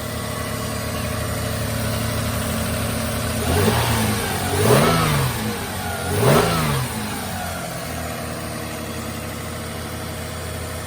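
1997 Lexus ES300's 3.0-litre V6 idling shortly after a cold start. It is blipped three times between about three and a half and seven seconds in, the pitch rising and falling with each rev, then it settles back to a steady idle.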